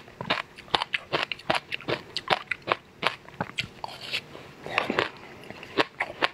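Close-miked crunching as a cookie-crumb-coated ice pop is bitten and chewed: a quick run of sharp, crisp crunches, several a second.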